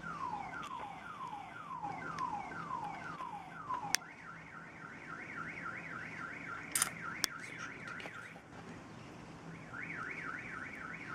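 Electronic alarm siren cycling through its tones: repeated falling sweeps about twice a second, then a fast up-and-down warble about three times a second. The warble breaks off briefly near the end and then starts again. A few sharp clicks sound over it.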